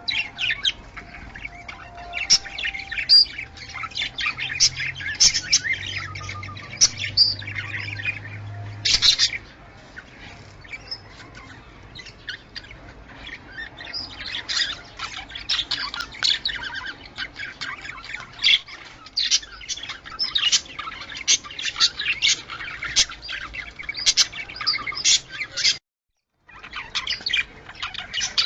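Budgerigars chirping and warbling in a fast, continuous chatter of short high notes and squawks. The sound breaks off for a moment near the end.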